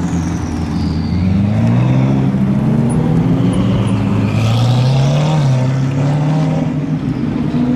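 Sports-car engines running at low speed as the cars move off and drive by one after another. The engine note rises about a second or two in and dips briefly about five seconds in, with a fading high whine at the start.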